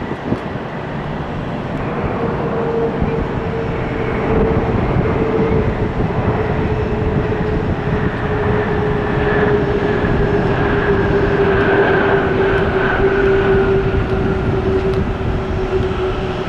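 Heavy jet's engines running loud as it lands, the noise swelling over the first few seconds with a steady whine that slowly falls in pitch.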